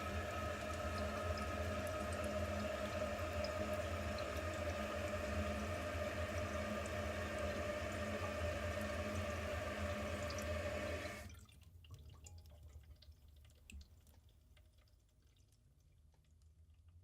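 Toilet tank refilling: the fill valve runs with a steady hiss and a humming whine, then shuts off abruptly about eleven seconds in. After that only faint drips and trickles remain.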